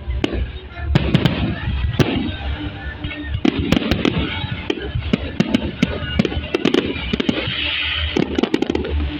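Fireworks display going off: many sharp bangs and crackling pops in quick, irregular succession. Music plays underneath.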